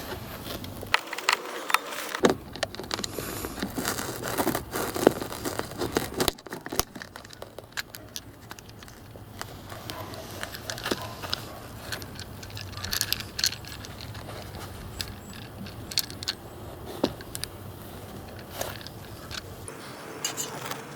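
Hand work dismantling a car's interior trim: irregular clicks, knocks, scrapes and light metallic rattles of tools and plastic trim pieces being unclipped and unscrewed. The work is busiest in the first few seconds, then goes on as scattered clicks.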